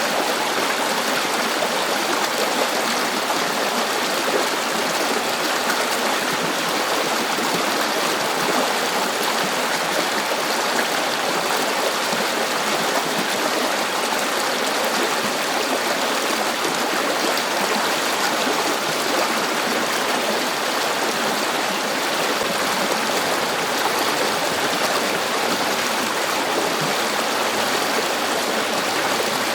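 River water flowing: a steady, even rush of running water over the whole stretch, with no breaks or changes.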